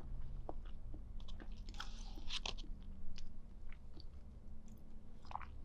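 Close-miked chewing of a mouthful of food, with scattered small mouth clicks and a short crackle about two seconds in.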